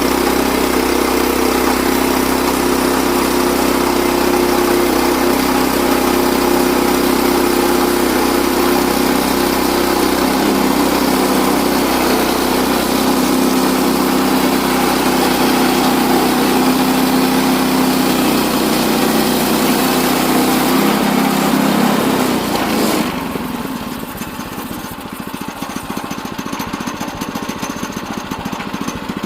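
Portable sawmill's small engine running steadily at high speed. About three quarters of the way through it drops suddenly to a slower, quieter, pulsing idle.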